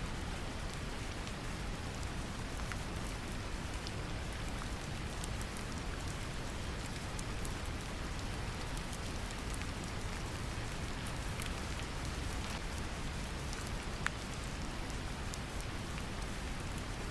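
Steady brown noise, deepest in the low range, layered with gentle rain falling on a surface, with scattered faint drop ticks.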